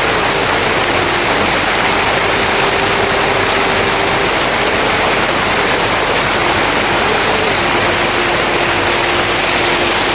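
Steady, loud rush of water, an even roar with no breaks.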